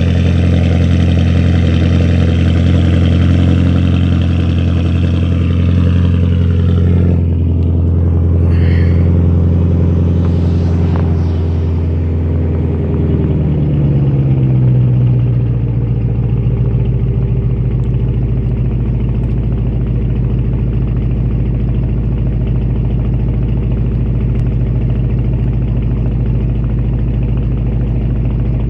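Audi C7 S6 twin-turbo 4.0 V8 running through a straight-piped exhaust with the mufflers and resonator deleted, idling loudly. It starts at a raised idle, then about halfway through the pitch slides down over a few seconds and settles into a lower, steady idle.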